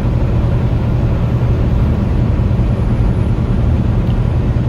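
Steady low engine and road rumble of a semi-truck heard from inside the cab while driving.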